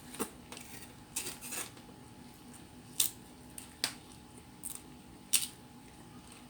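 A person chewing pizza close to the microphone, with about half a dozen sharp wet mouth clicks and smacks, the loudest about three seconds and five seconds in.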